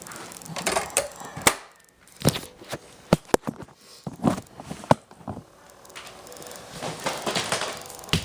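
Hands handling hard plastic gear: a series of sharp clicks and knocks with short stretches of rustling between them.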